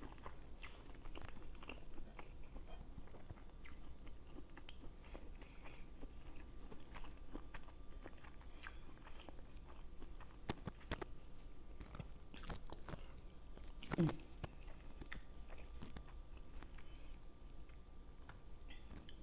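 Close-miked chewing and mouth sounds of a person eating: wet smacks and small clicks throughout. About fourteen seconds in there is a short vocal sound that falls in pitch.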